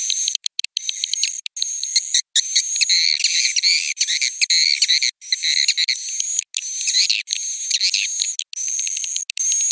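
Recorded roosting lure call of edible-nest swiftlets: high-pitched rapid twittering trills with steady whistled notes. The sound keeps breaking off in brief abrupt silent gaps.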